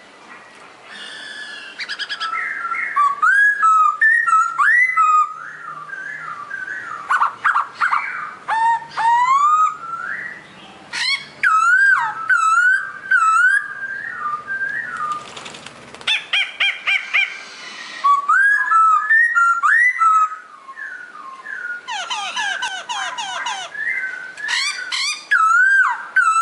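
Pokho songbird singing a long, varied song: clear whistled notes that slide up and down, mixed with quick chattering and clicking runs and high sweeping calls, with brief pauses between phrases.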